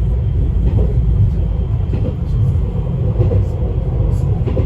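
Izukyu 2100 series electric train running, heard from inside the passenger car: a steady low rumble of wheels on rail with a few faint knocks.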